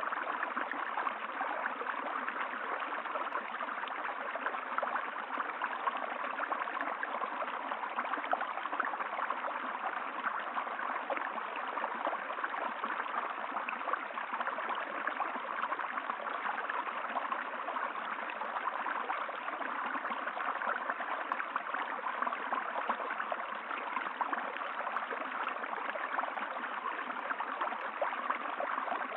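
Flowing stream water, a steady babbling and trickling that does not let up.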